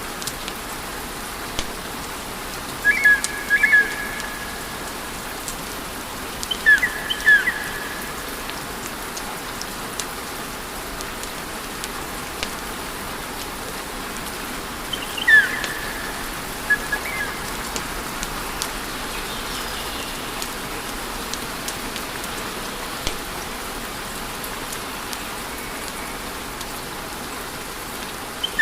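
Wood fire in a fireplace crackling: a steady hiss with scattered small pops. A few times, short high falling chirps or squeaks come through in quick clusters.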